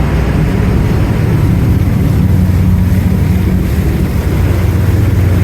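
Volvo Penta MD50 marine diesel, a TMD50 run without its turbo, running steadily at cruise speed, about 900 RPM, as a constant low drone.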